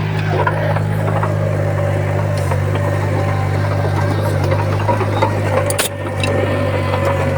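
Komatsu D20P crawler bulldozer's diesel engine running steadily, with light clanking and rattling from the machine. A sharp click with a brief dip in level about six seconds in.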